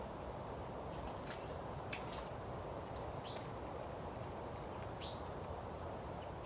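Small birds giving a few short, high chirps, the clearest about three and five seconds in, over a steady low outdoor background, with a few faint ticks in the first half.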